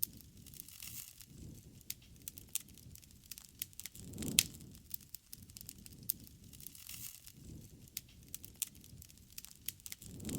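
Wood fire crackling, with many small pops and snaps over a low rumble of flame, and one louder pop about four seconds in.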